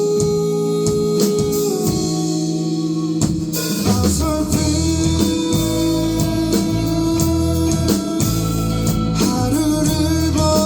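A rock band playing live, with electric guitar, drums and singing. The low end fills out about four seconds in.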